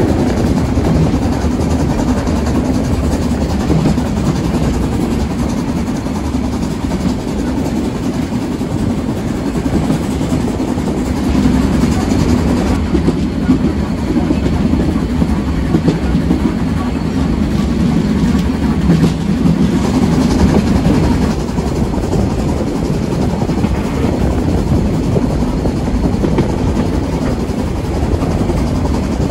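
A train running on the Harz narrow-gauge railway: a steady, loud, low rumble.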